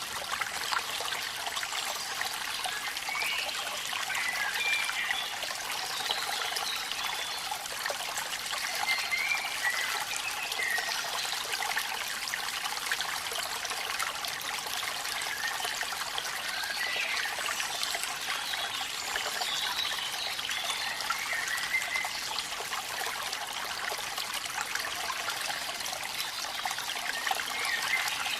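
Steady rushing and trickling of falling water from a waterfall, with faint short high calls here and there.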